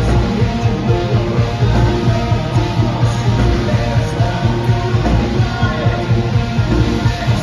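Live progressive rock band playing loud, dense music with a heavy bass and drum low end and a steady beat.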